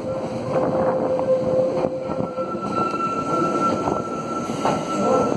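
Ex-London Underground 1938 stock electric train running slowly along the platform as it arrives, its wheels knocking over rail joints. A steady whine runs underneath and shifts to a higher pitch about two seconds in.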